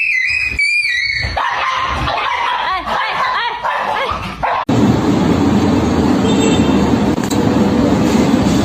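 A dog whining and yipping in high, wavering cries. About halfway through, the sound cuts off abruptly and is replaced by a steady, dense noise.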